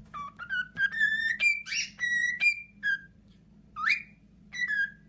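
Parrot whistling a quick string of short, clear notes, a few of them sliding upward, with brief breaks between them.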